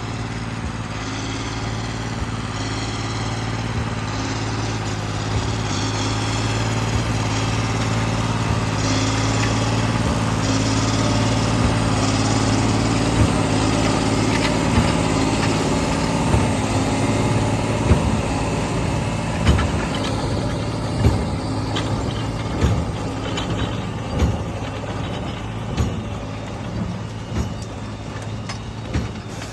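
Krone baler running off a tractor, a steady engine hum under it. About halfway through, regular knocks start at roughly one every second and a half.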